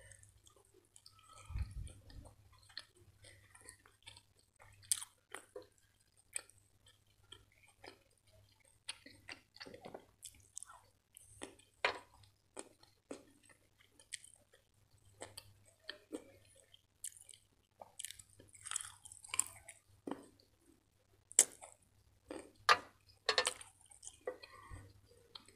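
Close-miked chewing and wet mouth sounds of a person eating soft butter chicken in sauce: irregular sharp smacks and clicks, growing louder and busier near the end, with a dull low bump about a second and a half in.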